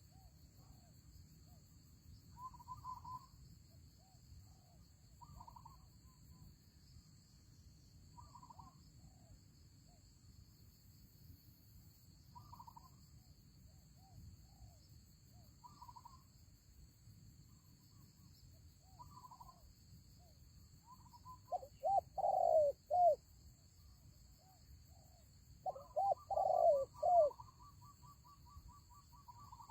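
Spotted doves cooing: soft coos repeated every few seconds, then louder multi-note cooing phrases twice in the last third, the second with a quick rattling trill.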